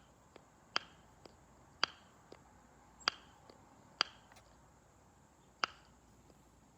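Primer bulb on a Stihl FS 46 string trimmer being pressed over and over to prime the carburettor for a cold start: a sharp click about once a second, with fainter clicks between.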